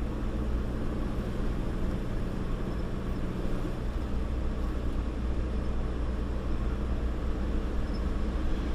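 Truck on the move, heard from inside the cab: a steady low engine drone over road noise.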